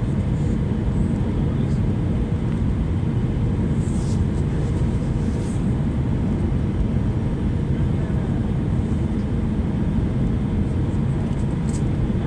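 Cabin noise of an Airbus A320-214 in flight: a steady, even low roar of airflow and its CFM56 engines heard from inside the cabin, with a few faint ticks.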